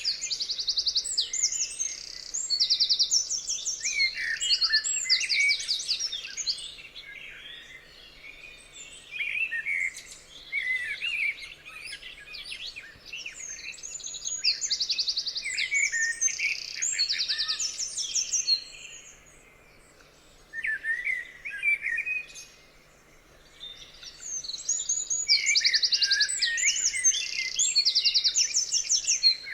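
Several songbirds singing at once, with fast high trills and chirps repeating in phrases. The singing eases off into two short lulls a little past the middle.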